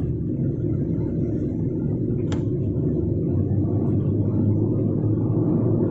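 Steady low rumble of a car's engine and road noise heard inside the cabin while driving, with a single brief click a little over two seconds in.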